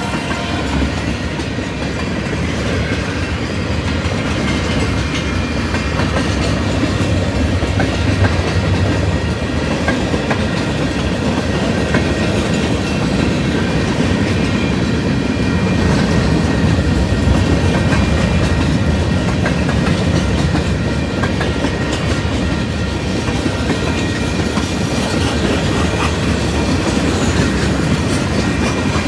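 Train rolling past at steady volume, its wheels clacking over the rail joints with a continuous low rumble.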